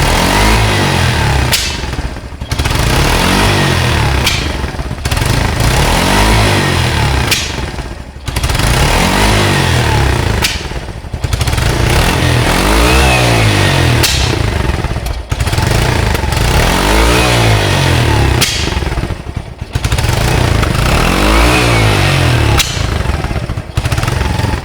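Yamaha SR 125's single-cylinder four-stroke engine revved again and again, its pitch climbing and falling every few seconds, with brief dips in loudness between the revs.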